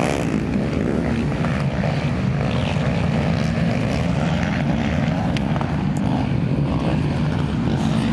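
Racing quad (ATV) engines running together on a motocross track, a steady blended drone without one clear rev or pass.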